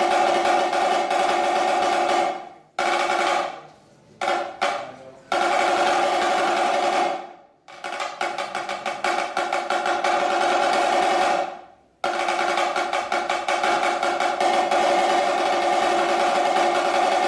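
Snare drum played solo in a rudimental piece: sustained rolls that die away about two seconds in and again about seven seconds in, broken by a few single strokes. After the second break come fast accented strokes that build back into a roll, which stops sharply and starts again about twelve seconds in.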